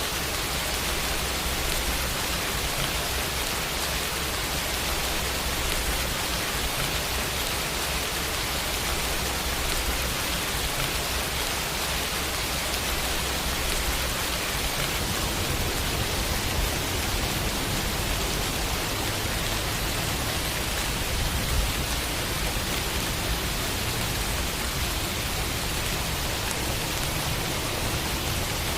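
Steady rainfall pattering on a window, an even hiss with no breaks or thunder.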